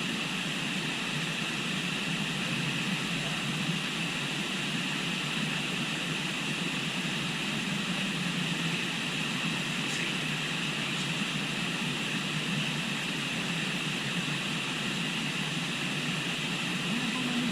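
A river flowing, a steady rushing of water with no breaks.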